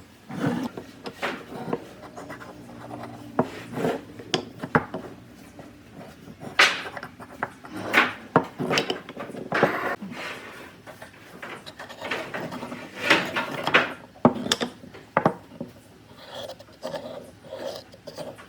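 Irregular knocks, clatters and short scrapes of wood and hand tools being handled on a workbench, with no power tool running.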